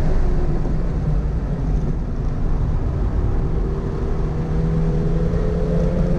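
Toyota GR86's 2.4-litre flat-four engine heard from inside the car on track, with heavy road and tyre noise. Its note drops back early on, then climbs steadily in pitch from about halfway through as the car accelerates.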